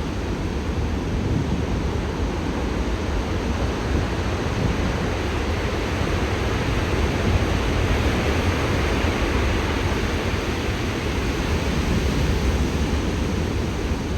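Heavy ocean swell from a distant typhoon breaking as surf, a loud steady wash of waves that swells a little about halfway through.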